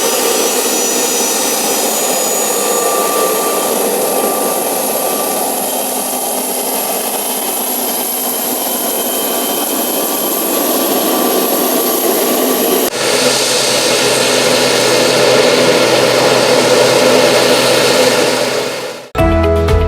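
Airplane engines running with a steady roar and thin whining tones. The sound changes abruptly about two-thirds of the way through, then drops away near the end.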